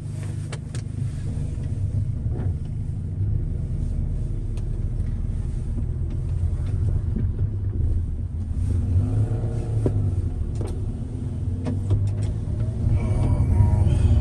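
Stage 2+ tuned Audi TT driving on a winding road, heard from inside the cabin: a steady low engine and road rumble, with the engine note rising and falling in the second half and a few light clicks.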